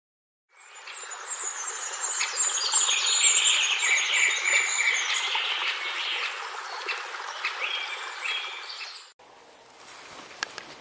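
Birds singing with insects chirring, fading in from silence and cutting off abruptly about nine seconds in, followed by quieter outdoor background with a few small clicks.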